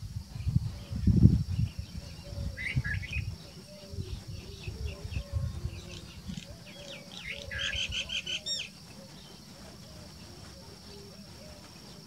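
White-eared bulbul calling: a short phrase about two and a half seconds in, then a quick run of bright, repeated notes that ends abruptly near nine seconds in. A low rumbling noise, the loudest sound, lies under the first three seconds.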